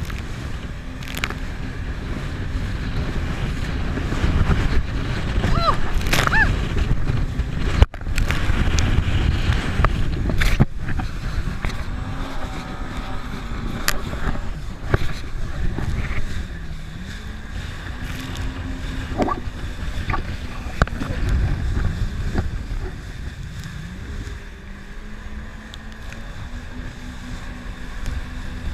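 Jet ski engine running, its pitch dipping and rising with the throttle, over heavy wind and water noise.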